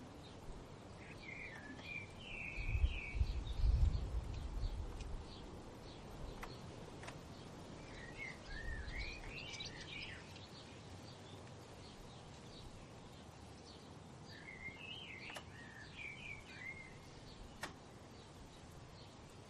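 A songbird sings three short phrases of quick rising and falling notes, several seconds apart, with faint scattered chirps from other birds. A low rumble of wind swells and is loudest about three to four seconds in, with a smaller gust near nine seconds.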